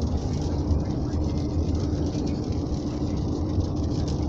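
Steady low rumble of a jet airliner passing nearby, with a faint constant hum throughout.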